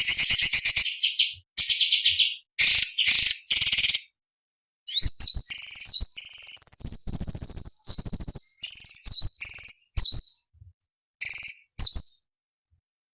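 Orange-bellied leafbird singing in separate bursts broken by abrupt silent gaps. It opens with harsh, very rapid chattering phrases, then gives a run of quick high whistled notes that slide up and down, and falls silent about a second before the end.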